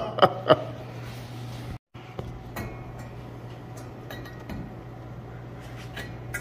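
A few sharp metallic clinks at the start as things are shifted, then a faint steady hum with occasional light clicks.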